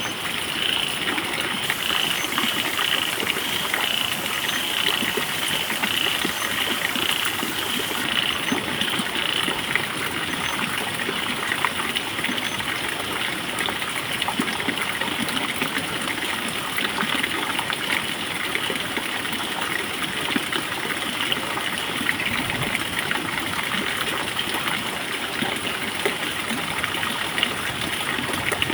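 Water running steadily with a constant rush. During the first ten seconds a short high chirp repeats about twice a second over it.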